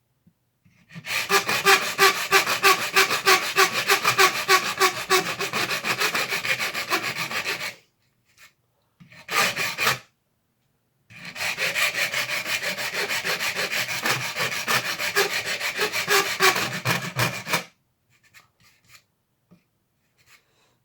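Hand file rasping quickly back and forth on the plastic shell of a Knockout blaster, trimming it down. There are two long bouts of strokes with a short burst between them.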